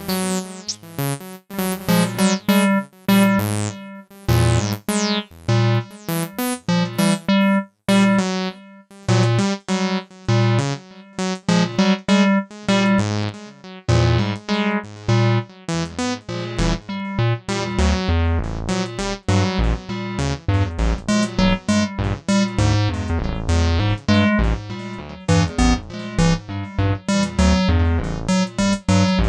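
Acid synth line from AcidMachine, a TB-303-style bass sequencer: a fast run of short notes over a low bass, many of them starting bright and closing down quickly as the filter snaps shut. The pattern drops out briefly about eight seconds in, then runs on denser.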